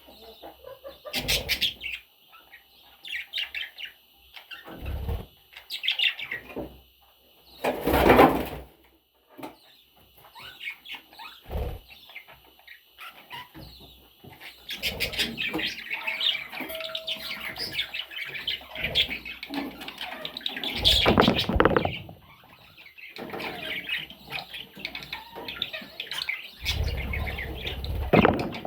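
Pet budgerigars chirping and chattering continuously, with several short, louder bursts of wing flapping.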